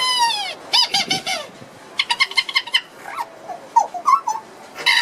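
Wacky whistle, a mouth-roof reed whistle, blown to mimic animal calls. It opens with a long call falling in pitch and another about a second in, a fast trill around two seconds in, then short squeaky chirps.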